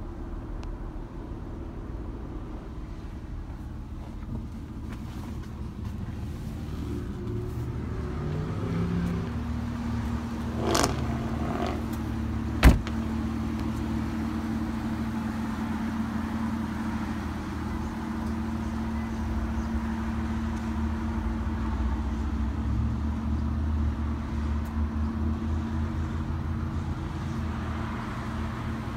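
Aston Martin DB9's V12 engine idling steadily. A single sharp thud about thirteen seconds in fits a car door being shut.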